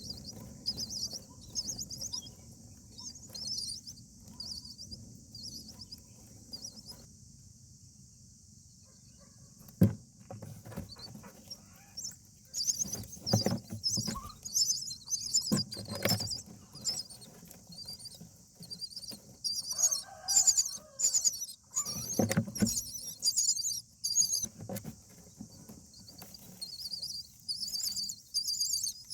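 Common myna nestlings chirping in repeated bouts of rapid high-pitched begging calls, busiest in the second half. Several loud thumps and wing flutters in the nest, the sharpest about ten seconds in, and lower calls around twenty seconds in.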